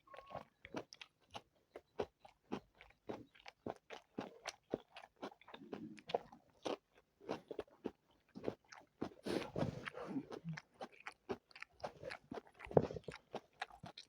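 Close-miked chewing and biting of spicy chicken biryani and chicken legs: a quick run of wet mouth clicks, about three or four a second, thickening into a denser stretch a little past the middle.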